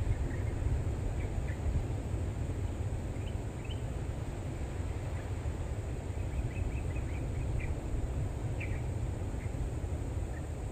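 Outdoor ambience: a steady low rumble with short, high bird chirps scattered throughout, bunched together about six to seven seconds in.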